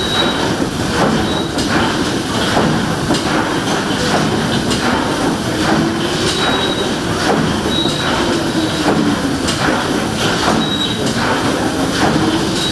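Steam engine of the steamboat Waverley running steadily, a continuous mechanical clatter with regular knocks from its moving parts.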